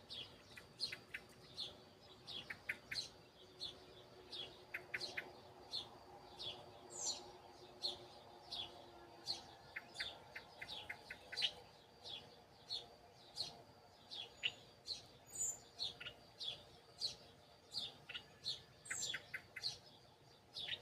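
Small birds chirping: short, sharp chirps repeat about twice a second throughout, with occasional quick runs of shorter notes.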